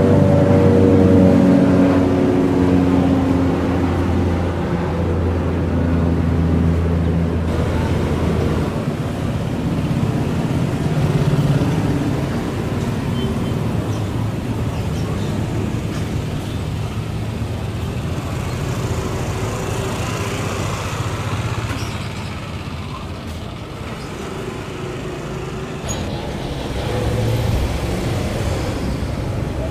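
Cessna 208B Grand Caravan's turboprop engine and propeller running, a steady drone with a low hum that fades after about nine seconds. A broader rushing sound carries on, dips, and swells again near the end.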